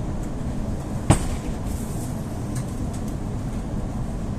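Interior running noise of an EP2D electric train carriage under way: a steady low rumble of wheels and running gear, with one sharp knock about a second in.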